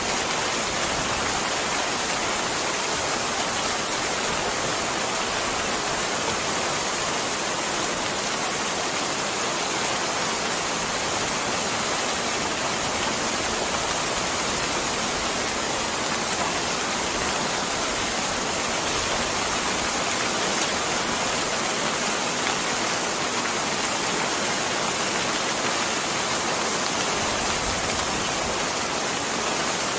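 Steady rain: an even hiss with no breaks.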